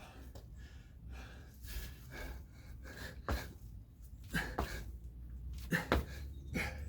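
A man breathing hard in sharp, forceful gasps and exhalations while doing kettlebell jump squats. From about halfway in come several dull thuds, his feet landing from the jumps.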